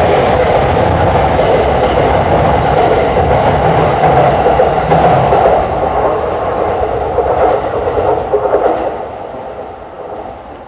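Sobu Line E231-series electric commuter train running out of the station, its wheels clattering over the rails. The noise dies away from about nine seconds in as the train leaves.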